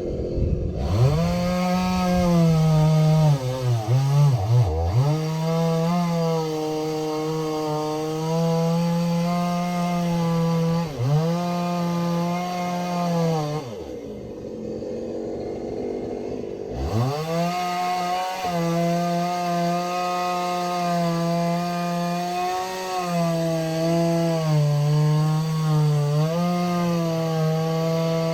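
Chainsaw at full throttle cutting through logs, its pitch sagging each time the chain bites into the wood. About halfway through it drops back for about three seconds, then revs up again for a second long cut.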